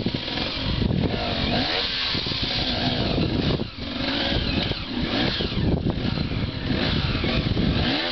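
Dirt bike engine revving up and down again and again as the throttle is worked, easing off briefly about three and a half seconds in.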